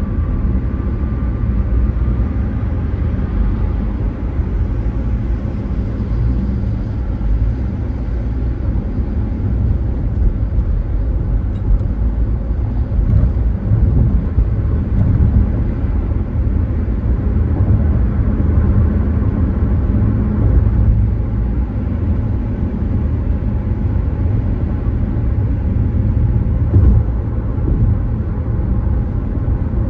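A car driving along at a steady pace: a continuous low rumble of engine and tyre noise on the road.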